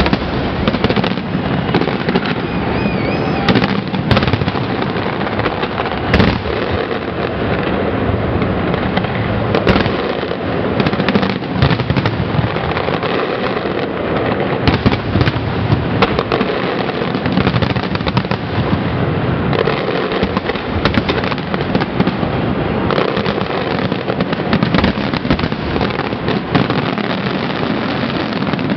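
Aerial fireworks display: a dense, unbroken barrage of shell bursts. Sharp bangs come every second or less over a continuous rumble and crackle.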